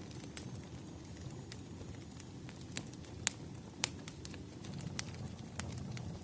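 Wood fire crackling: a low steady rumble with scattered sharp pops, a few louder ones through the middle.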